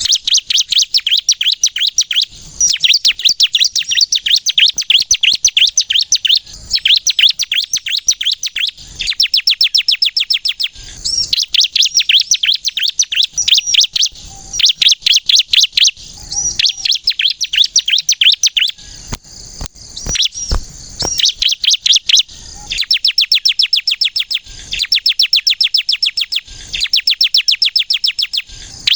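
Bar-winged prinia (ciblek kristal) singing constantly in loud, rapid runs of high repeated notes, phrase after phrase with short pauses between. A few knocks come about two-thirds of the way through.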